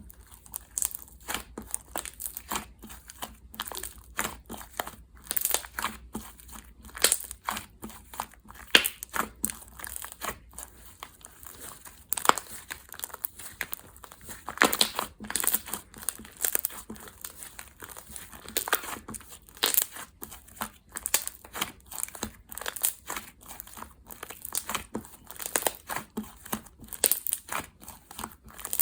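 Slime being squished and stretched by hand, making irregular crackling clicks and pops, several a second.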